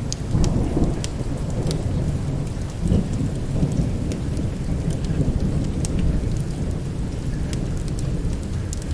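Steady heavy rain with a continuous low rumble of thunder, swelling about 3 s in. Scattered sharp crackles and pops, typical of a burning wood fire, sound over it.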